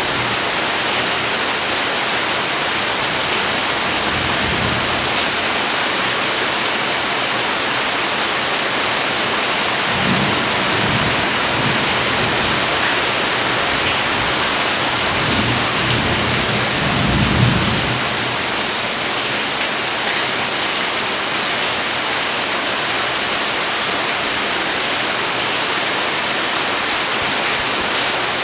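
Rain falling steadily, a dense even hiss, with low rumbles about ten seconds in and again from about fifteen to eighteen seconds.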